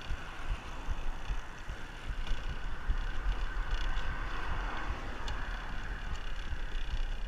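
Wind buffeting the microphone of a camera riding along on a moving bicycle, a gusting low rumble over a steady hiss of rolling noise that swells a little about halfway through.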